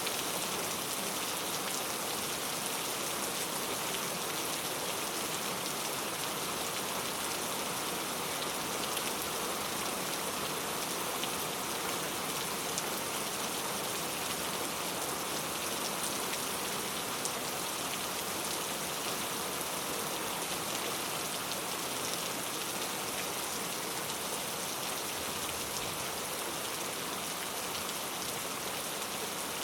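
Steady heavy rain falling, a dense even hiss with scattered faint drop ticks.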